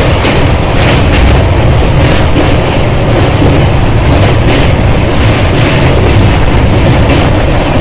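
Loud running noise of the Khajuraho Express passenger train on the move: a steady low rumble with repeated clatter of the wheels over the track.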